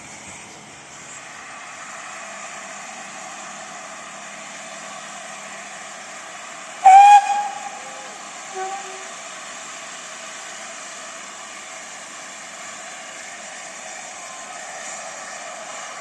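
Steam locomotive whistle giving one short, loud blast about seven seconds in, over a steady hiss.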